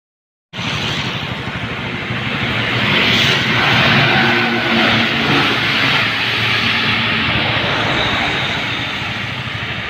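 A MAN TGS heavy truck on the move: a steady rush of wind and road noise with a low engine drone underneath. It starts abruptly about half a second in.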